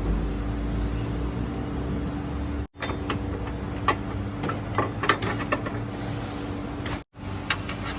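Toyota Vios engine running steadily, a continuous mechanical drone with a steady hum, with a few light clicks and taps in the middle. The sound drops out briefly twice, about three and seven seconds in.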